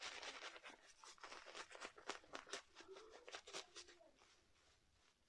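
Shaving brush working soap lather on the face: a faint, dense, wet crackle of bristles and lather that stops about four seconds in.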